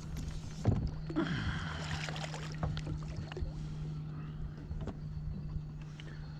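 Knocks, clicks and rustling of fishing gear being handled aboard a fishing kayak, over a steady low hum. A sharp knock comes near the start, followed by a couple of seconds of splashy, rustling noise.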